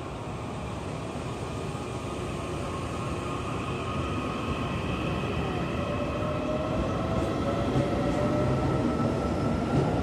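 Electric commuter train pulling away from a station, growing steadily louder as it accelerates. A motor whine slowly rises in pitch from about halfway through.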